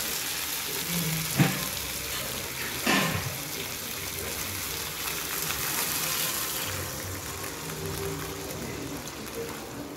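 Diced potatoes frying in oil in a kadhai, with a steel spatula knocking against the pan twice in the first few seconds. Later, water is poured into the hot pan, sizzling and splashing as it goes in.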